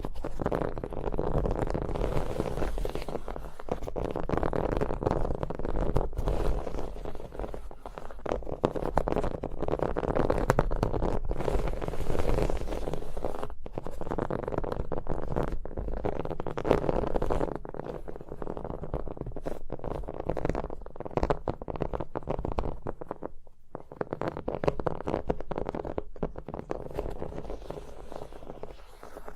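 Close-miked ASMR tapping and scratching on objects with the fingers: a dense, continuous run of quick, soft taps with a few brief pauses.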